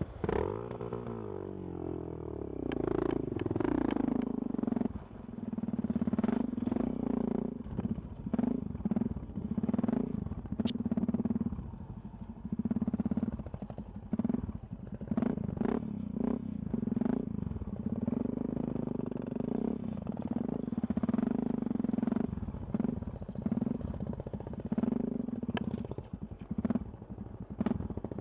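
Yamaha XT660Z Ténéré's single-cylinder engine running while riding over rough ground. The engine note shifts in pitch in the first couple of seconds, then keeps rising and falling with the throttle, amid frequent sharp knocks and rattles.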